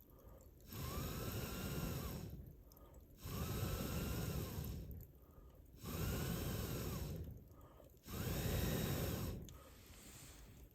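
Four long puffs of air blown at a campfire, each about a second and a half with a short pause between, each carrying a faint whistle that rises and falls.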